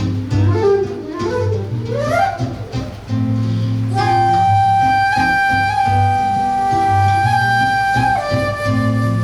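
Flute and seven-string guitar playing live: the flute plays quick rising and falling runs, then holds one long high note for about four seconds before stepping down, over a low bass line on the guitar.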